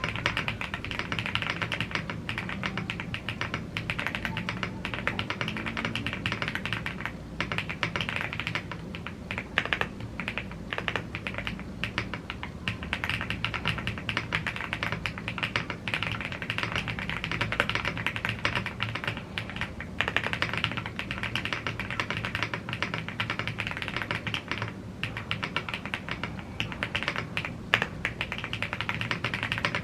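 Continuous typing on a YUNZII AL75 gasket-mounted aluminium mechanical keyboard with Blue Grey tactile switches and double-shot PBT Cherry-profile keycaps: a dense, unbroken stream of key presses, with an occasional louder key strike.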